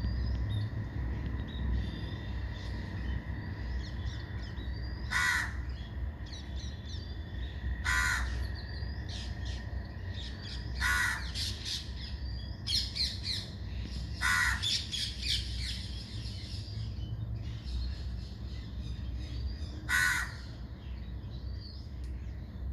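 Birds calling: five loud, harsh calls spaced a few seconds apart, with small high chirps and twitters between them.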